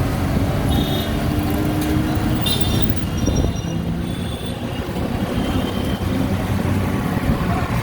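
Road and traffic noise from riding in an open-sided, battery-powered electric auto-rickshaw: a steady dense rumble with no engine note, and a few short high-pitched beeps now and then.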